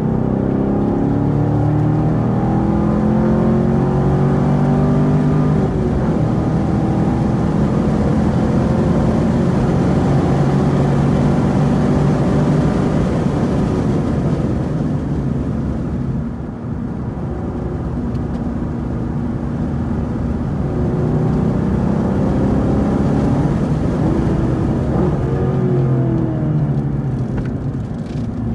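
Camaro SS 1LE's 6.2-litre V8 running hard on a race track, its pitch climbing under acceleration and dropping back sharply several times as the driver lifts, brakes and shifts.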